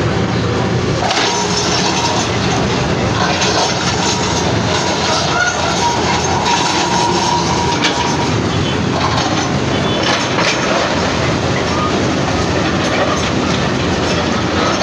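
Heavy demolition machinery working: a steady clatter and grinding with scattered knocks, and faint metallic squeals in the middle.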